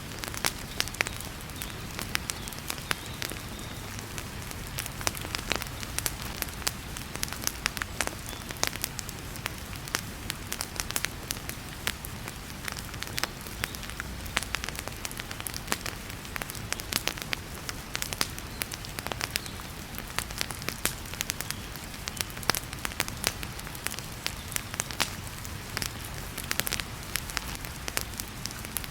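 Wood fire crackling in a fireplace, with many sharp irregular pops and snaps over a steady hiss of heavy rain.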